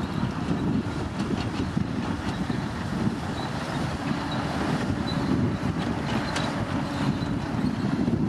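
Komatsu D65P crawler bulldozer working, its diesel engine running steadily under the clatter of its steel tracks.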